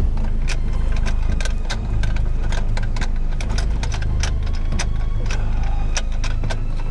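A vehicle engine idling under a run of sharp metallic clicks, about four a second and uneven, as a wheel boot is clamped onto a car's wheel.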